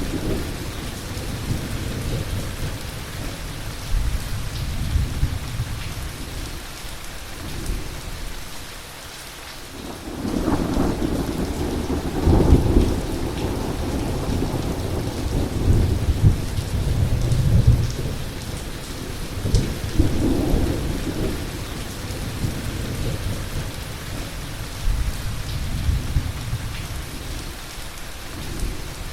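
Heavy rain falling steadily with rolling thunder, the rumbles swelling and fading in long waves and loudest about a third of the way in.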